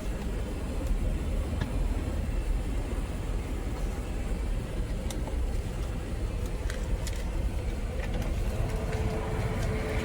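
Diesel engine of a semi truck idling, a steady low rumble heard from the cab, with a few faint clicks. A thin steady hum joins near the end.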